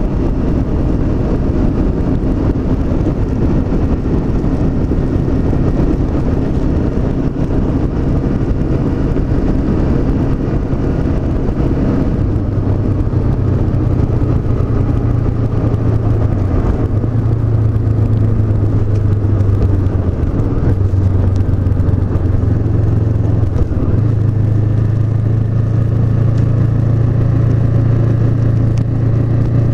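Honda CB500X's 471 cc parallel-twin engine running under way, with steady wind and road noise. About twelve seconds in, the engine note changes and settles into a lower, stronger drone.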